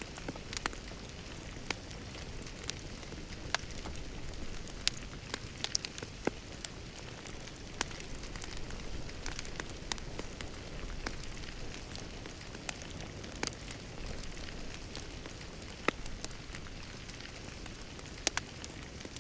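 Wood fire crackling in a fireplace: a steady low hiss and rumble with irregular sharp pops and snaps.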